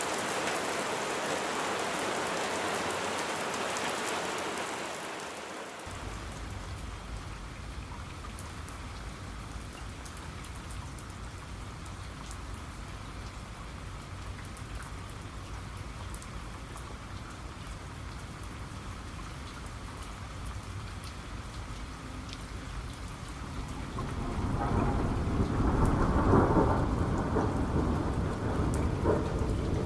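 Steady rain falling, its hiss thinning about five seconds in to scattered drop ticks over a low rumble. Rolling thunder swells louder over the last few seconds.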